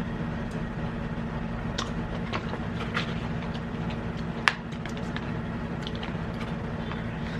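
Eating sounds: scattered sharp clicks and taps, such as cutlery on a plate and handling of food and packaging, one loud click about halfway through, over a steady low hum.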